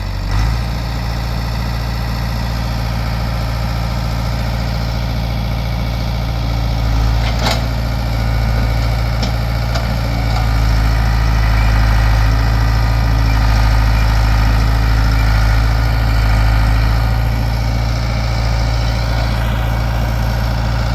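Old backhoe's heavy engine running steadily while it digs, working a little harder through the middle, with one sharp knock about seven seconds in.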